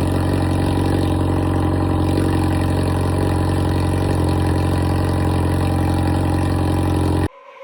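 Motorcycle engine running steadily at an even speed, cutting off suddenly near the end.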